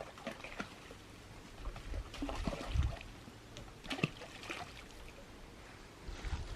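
Water splashing and trickling, with scattered knocks and clicks and a dull thump about three seconds in.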